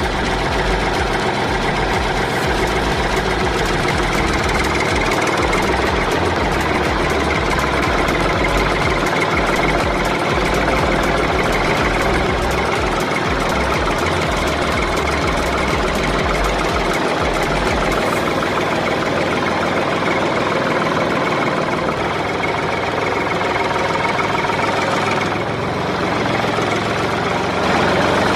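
Engine idling steadily with a knocking beat; its deepest rumble drops away about two-thirds of the way through.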